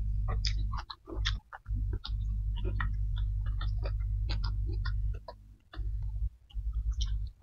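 Close-miked chewing and wet mouth smacking, a quick irregular run of small clicks over a low, dull rumble of jaw and mouth noise, with fingers working through rice and greens.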